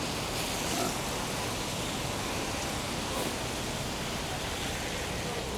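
Steady hiss of rain falling on a wet street, even and unbroken.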